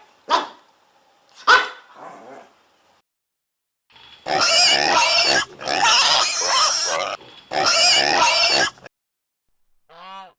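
Animal calls: two short cries early on, then three long, loud, harsh calls in a row from about four seconds in, each close to a second long and wavering in pitch, and a short faint call near the end.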